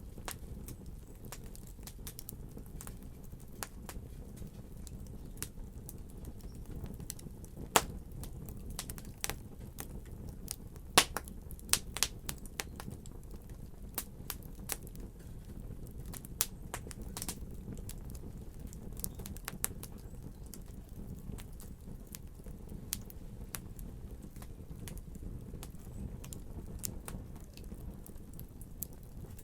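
Wood fire crackling: a steady low rumble of burning with scattered sharp pops and snaps, the loudest about eight and eleven seconds in.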